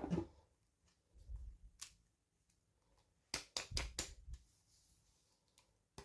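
Hands unboxing small plastic toys and packaging: scattered clicks and soft knocks, with a quick run of four sharp clicks a little past halfway.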